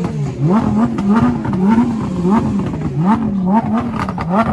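Car engine revved over and over, the pitch climbing and dropping about one and a half times a second, then held at a steady raised idle near the end.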